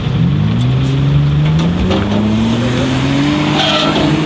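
Off-road 4x4's engine pulling away, its note rising steadily for about three seconds, then holding.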